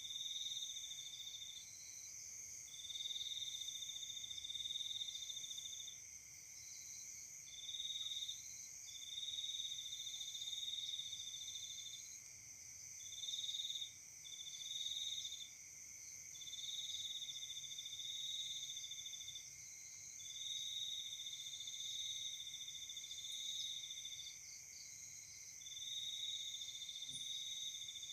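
Night insects chirping: one high trill comes in bouts of one to four seconds with short gaps, over a steady, even higher chorus of other insects.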